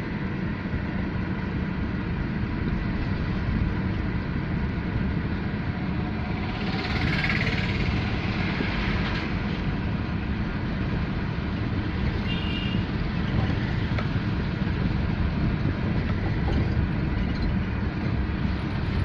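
A car driving: steady low engine and road rumble, with a brief louder hiss swelling about a third of the way in.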